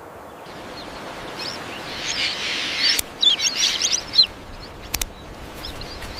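Small birds chirping, with a cluster of quick high chirps about halfway through, and a few sharp clicks.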